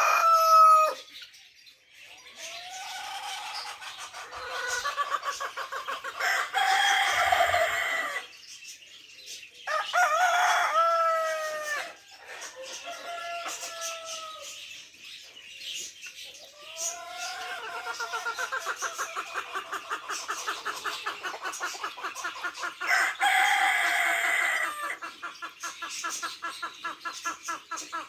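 Domestic chickens: roosters crowing several times in turn, each crow lasting a second or two, with long runs of fast, rapid clucking between the crows.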